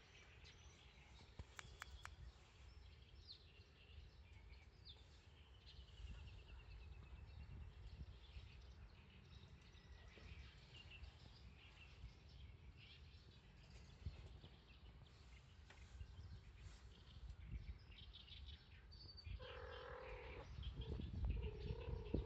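Faint outdoor ambience: small birds chirping and trilling over a low background rumble, with a short pitched call near the end.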